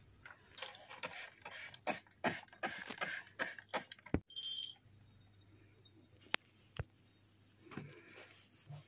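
A rapid run of scraping and clicking handling noises for about four seconds, then a short high squeak, then two sharp clicks a moment apart.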